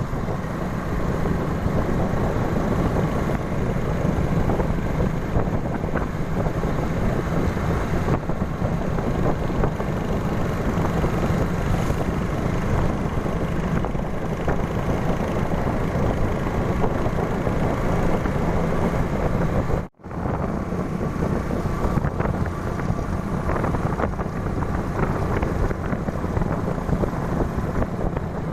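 Motorbike engine running on the move, with wind rushing over the microphone. The sound cuts out for an instant about twenty seconds in.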